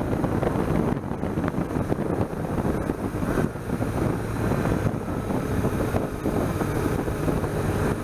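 BMW R1200GS boxer-twin engine running at a steady cruise, with wind rushing over the microphone.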